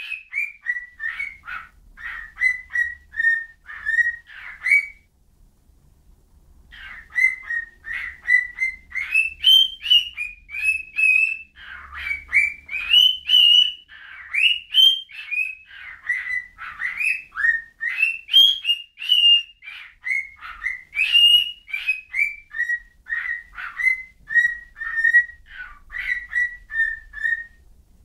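Pet bird whistling a long run of short, clear notes that rise and fall in pitch, pausing briefly about five seconds in before carrying on.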